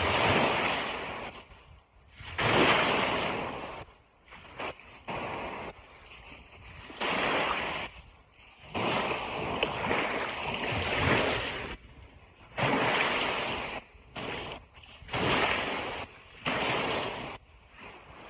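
Ocean surf breaking and washing up a beach, in repeated surges of one to two seconds with short quieter gaps between them.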